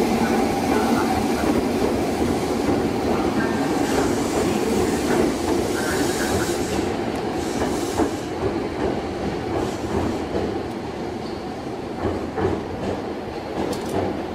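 JR 211-series electric commuter train running along elevated track, a steady rolling rumble of wheels on rail. In the second half it eases a little, with scattered clicks from the wheels.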